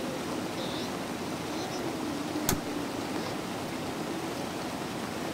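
Steady hiss of falling rain, with one sharp click about halfway through.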